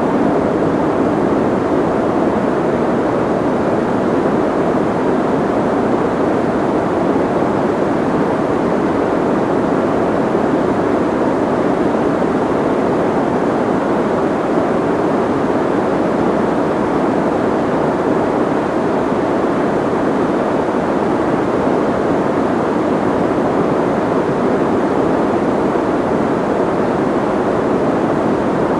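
Soft white noise: a perfectly steady, dull hiss with most of its weight in the low and middle range and little at the top, never changing.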